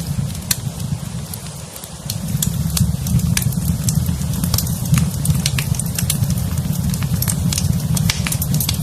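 Wood fire burning in a fireplace: a steady low rumble with scattered sharp crackles and pops throughout, briefly quieter about two seconds in.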